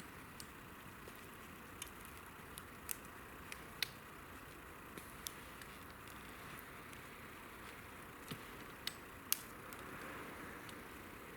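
Campfire crackling: scattered sharp pops over a faint steady hiss, the loudest pop about nine seconds in.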